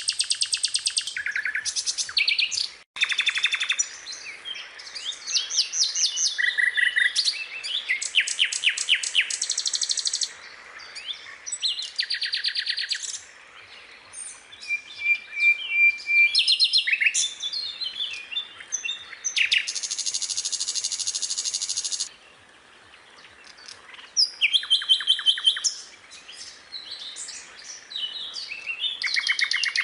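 Skylark singing a long, varied song of rapid trills, buzzy rattles and high whistled notes, phrase after phrase with short gaps between them.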